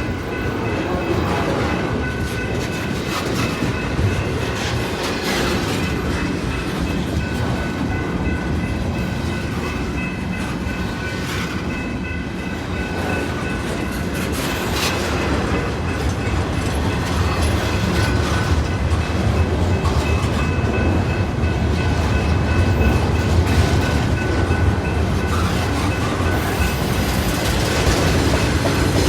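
Intermodal freight train's cars rolling past: a steady rumble with clickety-clack from the wheels and faint, thin, high-pitched squealing tones. The low rumble grows louder about halfway through.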